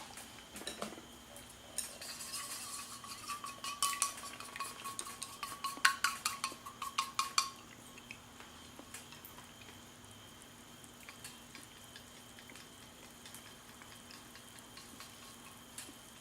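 A utensil stirring and clinking against cookware, a quick run of clinks for about five seconds, then it stops.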